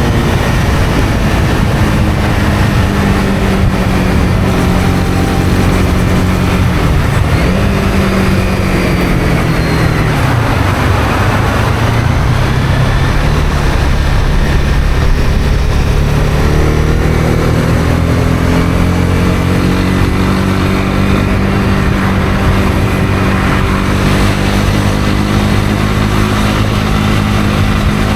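Honda CB250R's single-cylinder engine running under way, with a steady rush of wind and road noise. The engine note falls between about seven and eleven seconds in as the bike slows, then climbs again from about sixteen seconds as it picks up speed.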